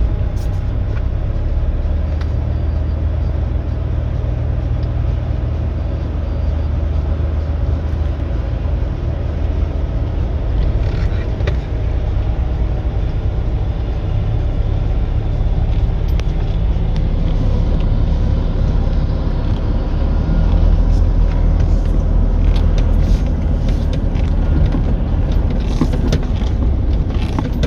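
Diesel engine of heavy harvest machinery running steadily, a deep continuous drone that grows a little louder about two-thirds of the way through.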